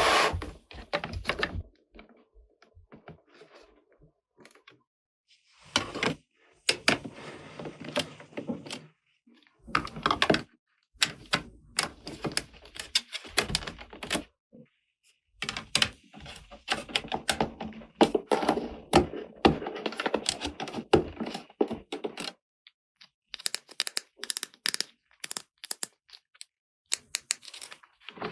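Hands handling small plastic toy pieces and packaging: a run of sharp clicks, taps and knocks, with stretches of rustling.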